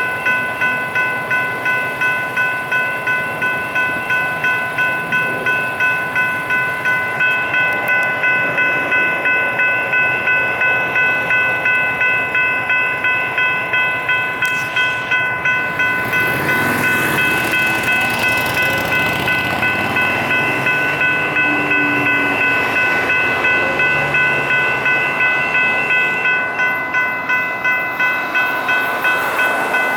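GS Type 3 electronic crossing bells ringing a fast, even run of metallic dings at a railroad grade crossing, which means the signals are activated. About halfway through, a passing train adds a rushing noise under the bells for a few seconds.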